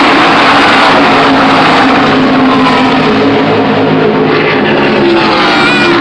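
A pack of NASCAR stock cars' V8 engines passing at racing speed, very loud, their pitch sliding down as they go by. The sound is harsh and overloaded on the phone microphone.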